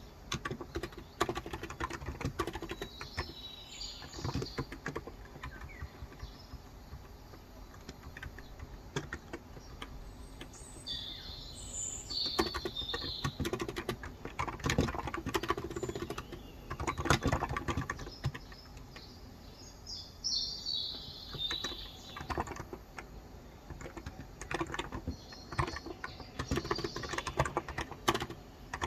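Typing on a Cox Endeavor electrostatic capacitive (non-contact) keyboard with 35 g switches: irregular runs of keystrokes. Birds chirp in the background several times.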